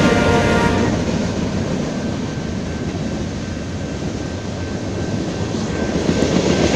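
BNSF freight train's cars rolling past: a steady rumble and rush of steel wheels on the rails. It grows a little quieter mid-way and swells again near the end.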